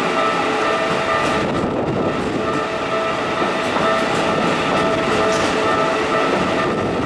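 A Keikyu Airport Line train passing over a level crossing, its wheels rumbling and clacking on the rails, while the crossing's warning bell rings steadily.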